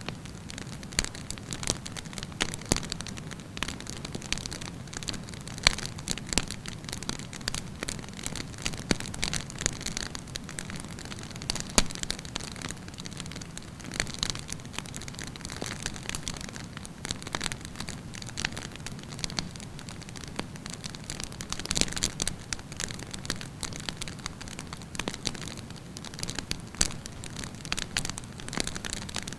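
Wood fire burning with a steady hiss and frequent irregular crackles and pops, a few of them sharper and louder.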